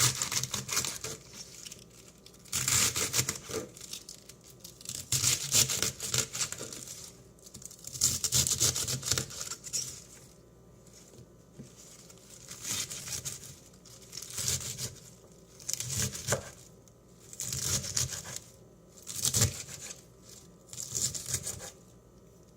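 Crinkling and tearing of something crisp being handled by hand, in about a dozen short bursts of a second or so each, with brief pauses between them.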